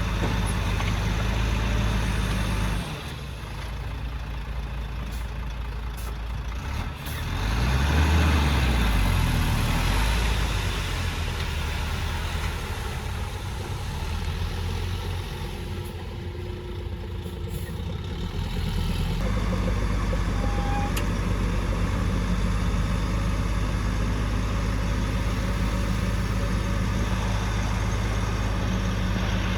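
Heavy diesel engine of earthmoving machinery running, rising in pitch and getting louder about seven seconds in, then easing back. The engine sound changes abruptly near three seconds in and again near nineteen seconds.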